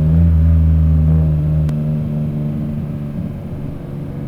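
Single-turbo Nissan 350Z's 3.5-litre V6 running at steady revs while driving. Under two seconds in, the deep low rumble beneath it drops away with a faint click, and the engine carries on at the same pitch, a little quieter.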